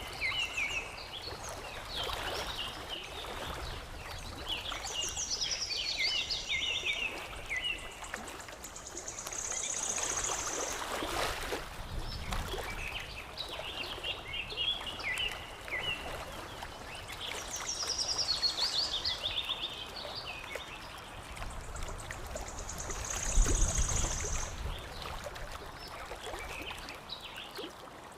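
Songbirds chirping and trilling in quick phrases over the steady lapping and trickling of water. The same run of chirps ending in a high trill comes round twice.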